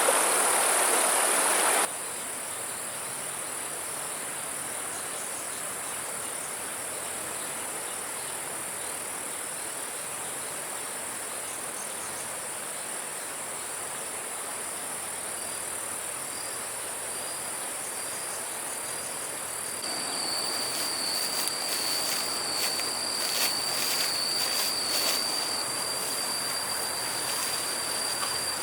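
Outdoor ambience of steady high-pitched insect buzzing. A loud rushing-water noise cuts off abruptly about two seconds in. About halfway through a thin steady whine joins, and irregular clicks and knocks come in over the last third.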